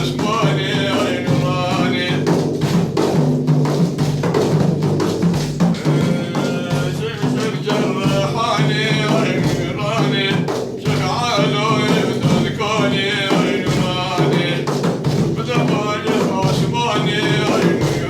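Male voice singing a religious praise song (madh) over a steady drum beat.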